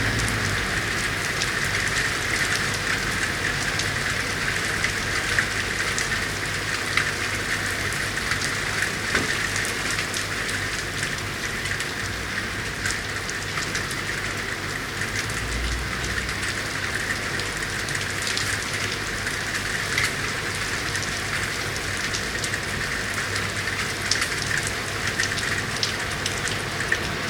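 Steady rain falling on hard city surfaces, a constant hiss dotted with sharp ticks of individual drops. A low rumble runs underneath and swells briefly around the middle.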